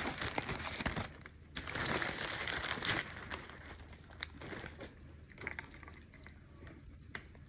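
Food packaging being handled, crinkling and rustling in two loud spells over the first three seconds, then quieter with a few scattered clicks.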